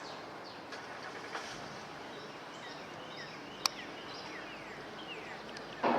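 Outdoor ambience: many birds chirping in short falling notes over a steady background hiss, with a single sharp click about three and a half seconds in and a sudden loud burst of noise right at the end.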